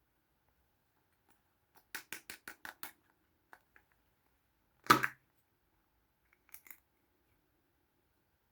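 Small hard plastic toy pieces being handled: a quick run of about six light clicks, a few faint ticks, then one louder clack a few seconds in and two more light clicks near the end.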